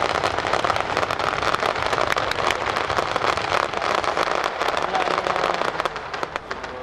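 Fireworks bursting overhead in a dense, rapid crackle of many sharp pops that thins out near the end.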